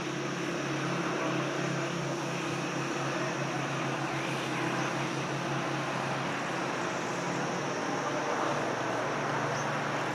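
Steady droning background noise with a constant low hum, unchanging throughout.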